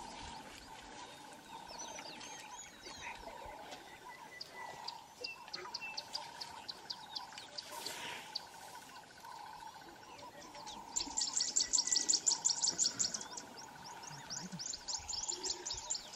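Wild birds chirping and whistling in bush, with a loud rapid run of high trilled notes, about ten a second, lasting about two seconds from roughly eleven seconds in.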